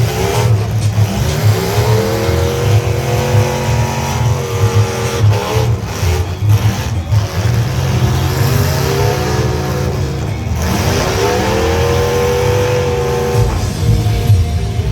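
Demolition-derby truck engines revving hard: the pitch climbs and holds at high revs, then drops and climbs again about halfway through, over a dense, loud noise of running engines.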